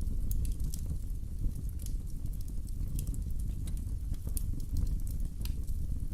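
Wood fire burning in a fireplace, with a steady low rumble and scattered sharp crackles and pops.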